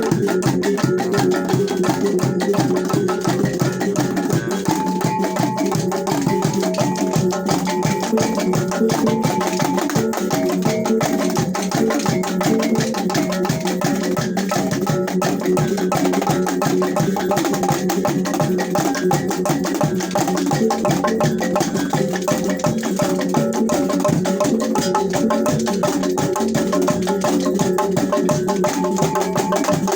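T'boli traditional ensemble music played live: a fast, even percussion beat under sustained pitched tones.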